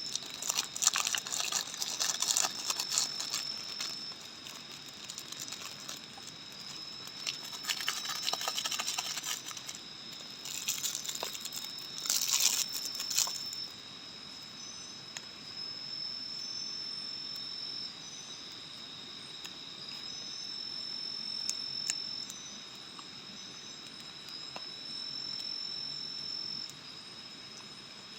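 Plastic seasoning sachets for a cup noodle being torn open and squeezed out, crinkling in several spells over the first half. Under it, crickets sing steadily at two high pitches, one with a slow pulsing.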